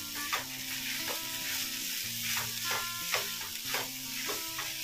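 Dried prawn masala sizzling in a stainless steel kadhai while a spatula stirs and turns it, with repeated scraping strokes against the pan.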